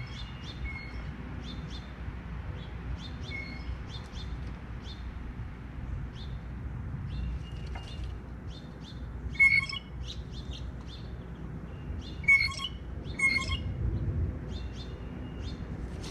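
Small wild birds chirping repeatedly, with a few louder calls about nine, twelve and thirteen seconds in, over a steady low background rumble.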